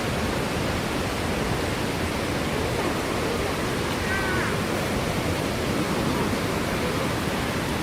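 Waterfall's water falling and splashing in a steady, unbroken rush.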